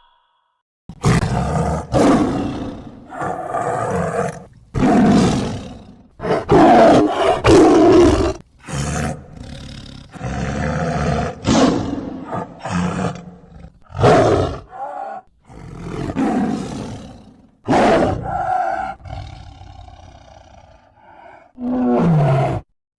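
A large wild animal roaring over and over: a long series of loud, rough roars with short pauses between them, the last one falling in pitch.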